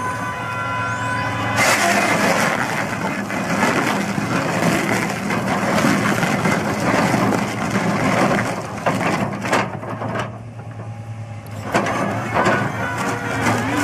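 An excavator's diesel engine runs under load while a Dipperfox SC850 Pro stump drill bores into a hard tree stump, with wood cracking and crunching. The sound eases briefly about ten seconds in, then picks up again.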